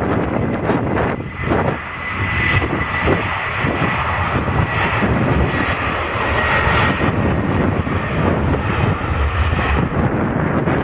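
Airliner's engines running as it passes, a loud steady rush of engine noise with a thin high whine in it for the first several seconds. Wind buffets the microphone underneath.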